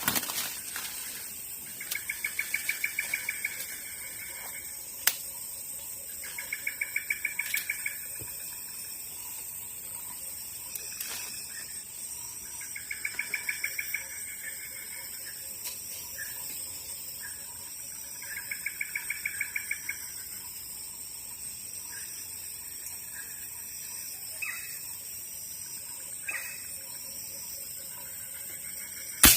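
A forest bird repeating a rapid trilled call of about a second and a half, four times, over a steady high hum of insects. A single sharp crack at the very end is the loudest sound.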